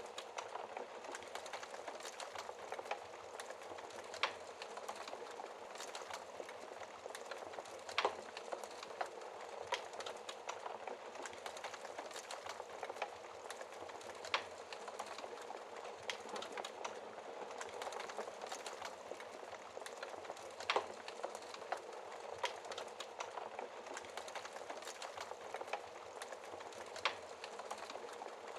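Wood fire crackling in a fireplace: a steady hiss of burning logs with frequent small pops and a handful of louder snaps scattered through.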